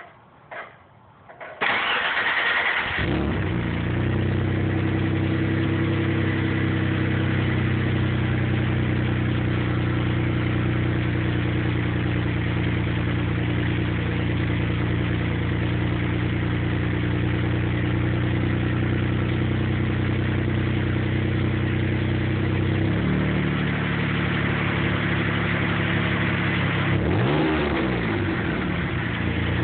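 Dodge Stealth's 3.0 L V6 through an aftermarket Tanabe exhaust: a few clicks, then the engine cranks and catches about a second and a half in and settles into a steady idle. Near the end it gets one quick blip of the throttle, rising and falling again.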